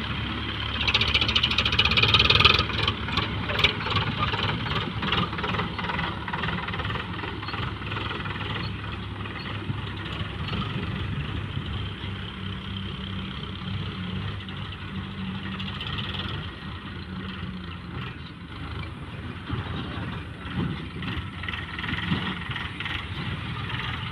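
Heavy diesel engine running steadily, with a louder burst of noise and clatter from about one to three seconds in.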